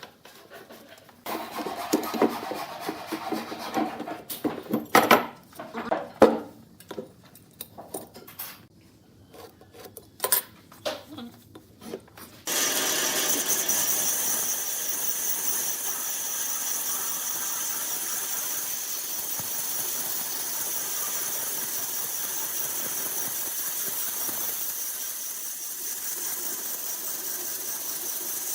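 Irregular knocks and clatter of wood being handled, then a power tool starts suddenly about halfway through and runs steadily with a high whine.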